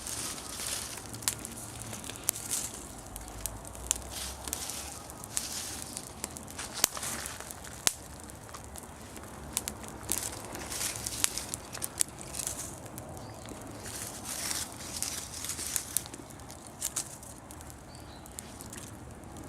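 Bonfire of dry fallen leaves burning and crackling, with irregular sharp pops over a steady rustling hiss.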